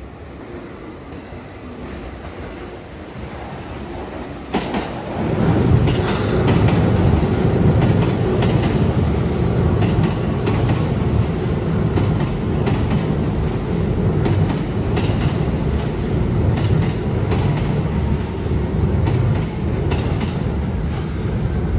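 Electric commuter train pulling into the station: its wheels rumble steadily on the rails, with rail-joint clicks, rising sharply about four and a half seconds in. A faint falling whine follows as it brakes toward a stop.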